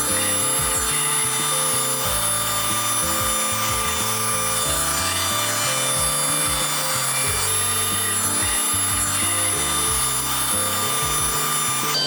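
Anker Eufy HomeVac H11 cordless handheld vacuum cleaner running, a steady high-pitched motor whine over rushing air as it sucks up scattered rice.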